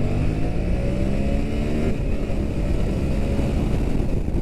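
Yamaha MT-07's parallel-twin engine pulling hard under full throttle, its pitch rising, dipping briefly about two seconds in, then climbing again. It is a wheelie attempt that does not lift the front and only makes the bike speed up.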